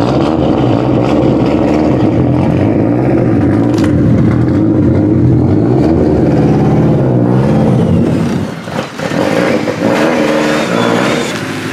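Nissan S13 drift car's turbocharged SR20DET four-cylinder running at a lumpy idle with small throttle blips, its pitch rising and falling. It goes quieter for a moment about eight seconds in, then settles to a steadier idle.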